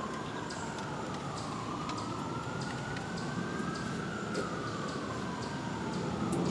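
A siren wailing, its pitch sweeping slowly up and down over a steady background rumble.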